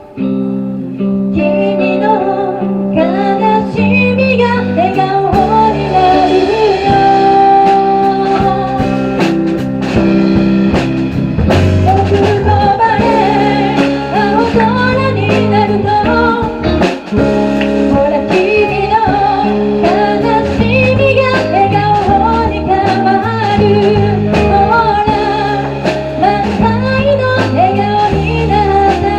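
Live band playing a song: guitar, bass and drums under a wavering lead melody line.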